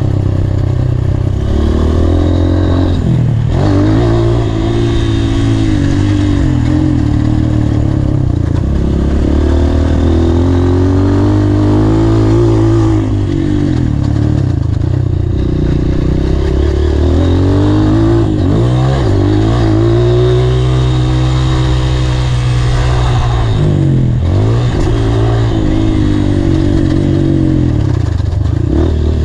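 Honda CRF230 dirt bike's single-cylinder four-stroke engine being ridden hard, its pitch repeatedly rising under throttle and dropping off again as the rider accelerates, shifts and slows.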